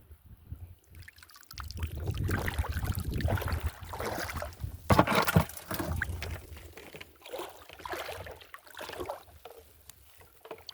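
Water sloshing and splashing, starting about a second and a half in, loudest around the middle, then thinning to lighter, broken splashes.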